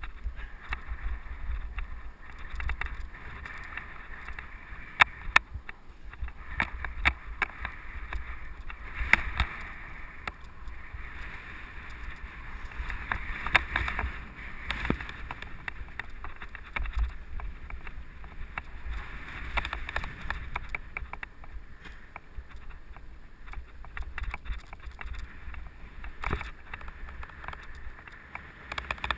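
Mountain bike being ridden over a dirt trail: tyres rolling on dirt with a steady rushing noise, and the bike rattling with many sharp clicks and knocks over bumps, with low wind rumble on the microphone.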